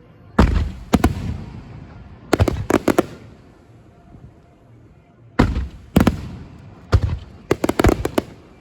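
Aerial firework shells bursting: a series of sharp booms, some single and some in quick clusters of three or four, each trailing off in a rumbling echo.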